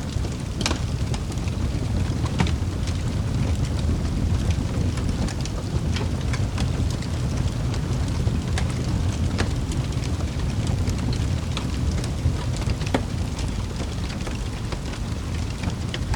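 Wood fire burning in a fireplace: a steady low rush of flames with irregular sharp crackles and pops scattered throughout.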